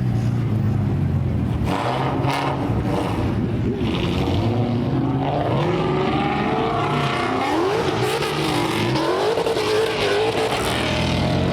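Car engine running, low and steady at first, then its pitch climbing and dipping repeatedly from about four seconds in.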